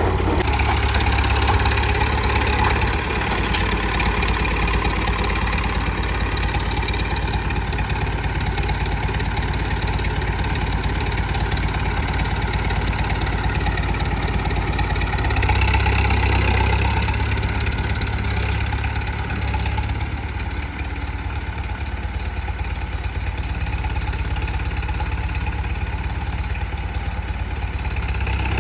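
Massey Ferguson 165 tractor engine running steadily, swelling louder twice: near the start and about halfway through.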